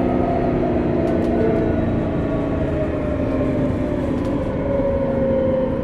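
Running sound recorded under a Sotetsu New 7000 series motor car with a Hitachi GTO-VVVF inverter, a car known for an unusual motor noise: wheel and track rumble under the motor and inverter tones, which glide slowly down in pitch as the train slows.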